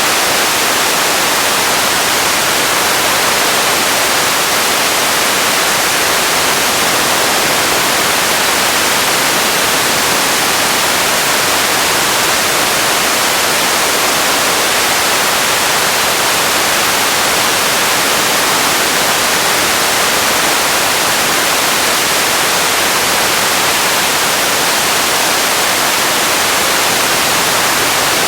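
Radio static: a steady, even hiss of noise with no tones or voices in it, brighter in the upper range than in the low end.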